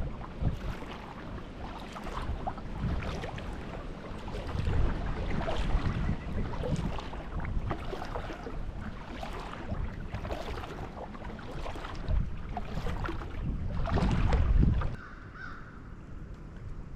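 Wind buffeting the microphone, with water sounds from a kayak being paddled: irregular splashes about once a second. The wind drops off suddenly near the end.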